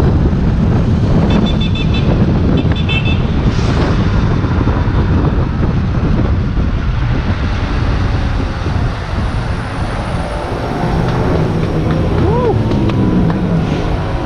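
Road and traffic noise with a heavy low wind rumble on the microphone while riding an electric dirt bike through city streets. About a second in, two short bursts of rapid high beeping, like a horn toot, are heard.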